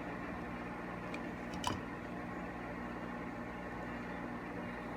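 Steady low background hum with a few constant low tones, broken by a single light click about a second and a half in.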